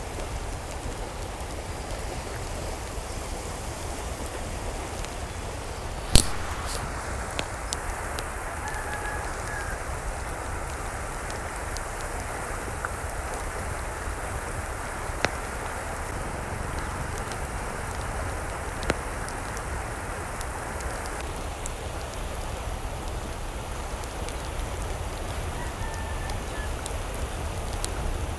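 Steady rain falling, an even hiss throughout. A sharp single click about six seconds in is the loudest moment, with two smaller clicks later, and a couple of faint brief calls sound in the background.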